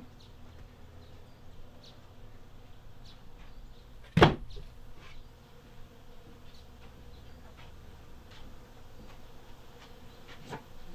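Honeybees buzzing, with one sharp, loud knock about four seconds in and faint scattered clicks.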